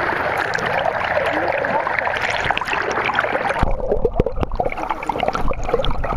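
Floodwater rushing fast, a steady rush of running water. A little over halfway through, the rush drops back and dull low thumps and knocks take over.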